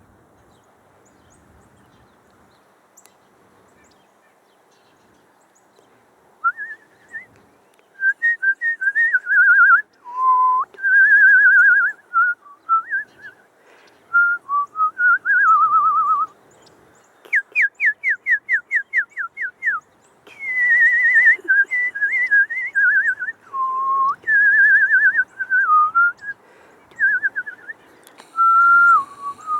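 A woman whistling to wild birds: a string of clear whistled notes and slides, starting about six seconds in. In the middle comes a quick run of about eight falling notes, at some four a second.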